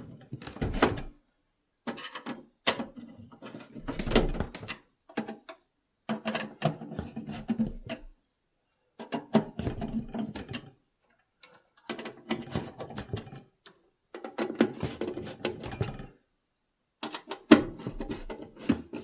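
Bursts of light metallic clicking and clattering with short silent gaps between them: a sheet-metal burner and its screws being handled and fitted into a tankless water heater's combustion assembly.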